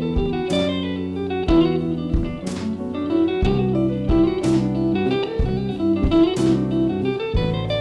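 Jazz combo playing an instrumental number at a steady beat, with a drum or cymbal hit about once a second over sustained low notes and a moving melody line.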